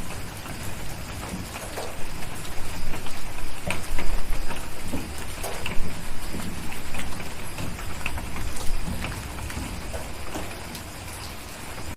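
Steady rain with scattered sharp crackles and taps from a fireplace and raindrops. A low thunder rumble swells about two seconds in and fades away near the end.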